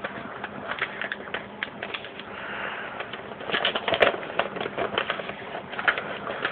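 A sheet of paper being folded and creased by hand: irregular crinkling and rustling with scattered sharp ticks, busiest about three and a half seconds in.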